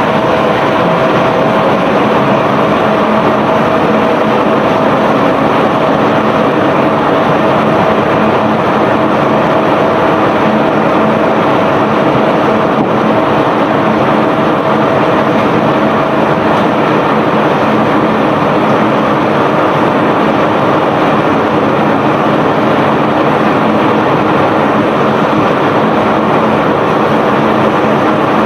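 Unloading machinery of a self-unloading barge running steadily: a dense, unbroken rush of mechanical noise with low steady hums and a higher whine that stops a little past halfway.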